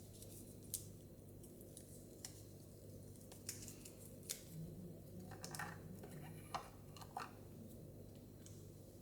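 Scattered small plastic clicks and taps, with a little light rustling about five to seven seconds in, from handling Mini Brands miniature toy groceries and their plastic surprise-ball capsules.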